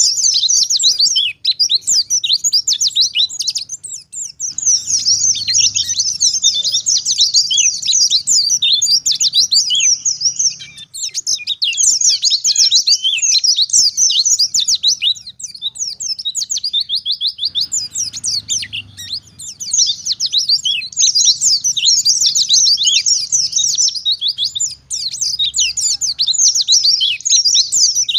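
White-eye (pleci) in full song: a rapid, continuous stream of high, quickly sliding twitters, broken by a few short pauses.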